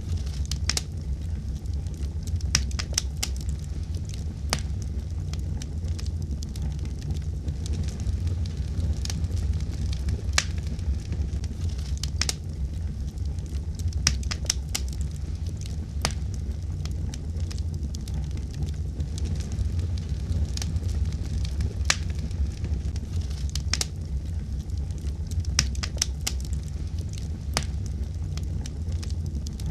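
Fireplace fire crackling and popping: irregular sharp snaps, several a second at times, over a steady low rumble of the flames.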